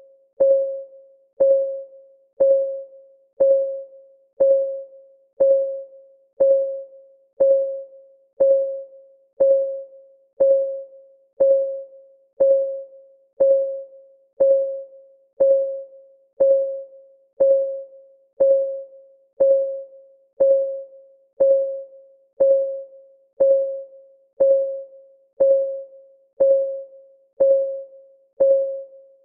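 Countdown timer's clock ticking sound: a short, pitched tick about once a second, each struck sharply and fading quickly, perfectly even.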